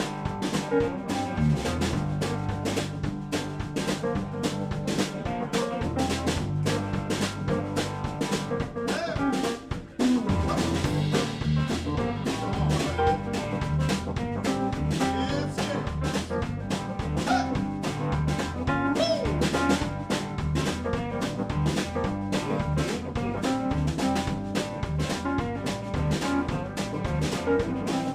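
Live blues band playing an instrumental passage on drum kit, bass, guitar and keys, with an even drum beat under steady bass notes. The band drops out briefly about ten seconds in.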